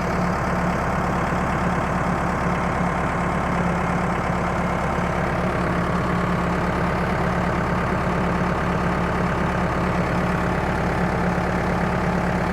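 Engine idling steadily, driving the sprayer's pump while it primes.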